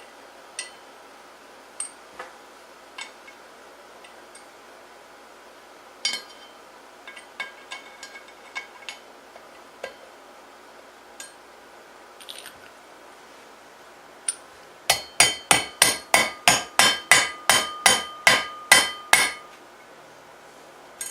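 Scattered clinks of small metal parts being handled, then a quick run of about twenty hammer taps on metal, four or five a second, each with a short metallic ring, as a part of a go-kart torque converter is tapped into place.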